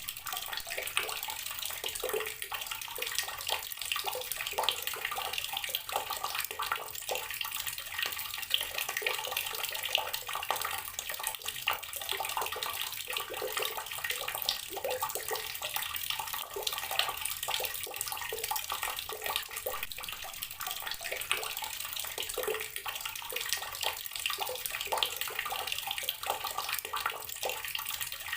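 Outdoor garden water tap running steadily, its stream splashing with a constant, irregular spatter.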